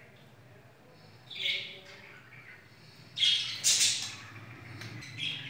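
A bird squawking: one short call about a second and a half in, then louder, harsh squawks around three to four seconds in.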